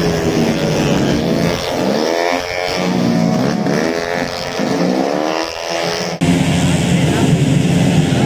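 Tuned 130 cc automatic racing scooter engines rising in pitch several times over as they accelerate. About six seconds in, the sound cuts abruptly to a steadier, louder engine drone.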